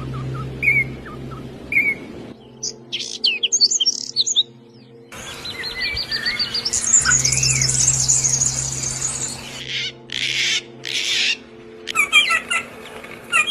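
Songbirds chirping and singing: short repeated chirps, then a long, fast trill in the middle, with the calls changing abruptly every few seconds. A steady low hum runs underneath, and two short hissing bursts come about ten seconds in.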